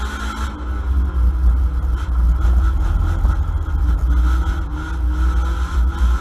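Ford Mondeo race car's engine running hard under acceleration, heard from inside the cabin over a heavy low rumble, its pitch rising a couple of times as it revs up.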